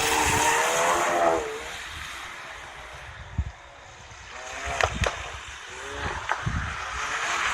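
Ford Focus RS engine and exhaust: the engine note falls away as the revs drop, then a few sharp cracks and short blips of revs follow.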